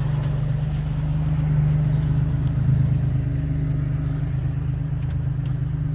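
Chrysler Hemi 265 straight-six in a Valiant CL Charger idling steadily and evenly.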